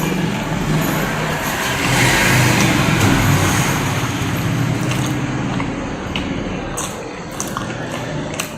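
A motor vehicle's engine, swelling to its loudest about two to three seconds in and then slowly fading, as a vehicle passing by does. A few short clicks sound over it in the second half.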